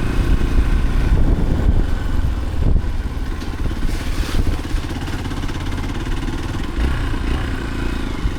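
A vehicle engine running continuously, with a steady low rumble and rapid pulsing.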